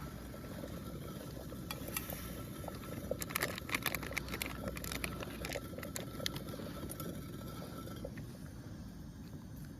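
Wood bonfire crackling: scattered sharp pops and snaps, clustered about three to four seconds in, over a steady low noise.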